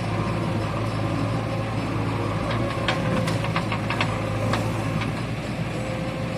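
Tractor diesel engine running steadily at idle, with a low hum. A few short sharp clicks or knocks sound over it around the middle.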